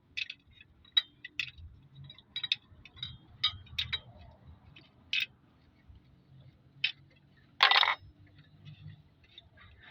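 Light metallic clinks and taps of engine parts and tools being handled while push rods are fitted to a cylinder head, coming irregularly, with one louder, longer scrape about three-quarters of the way through.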